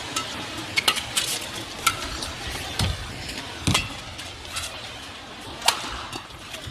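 Badminton rackets striking a shuttlecock in a rally: sharp cracks at irregular gaps of about a second, over steady arena background noise.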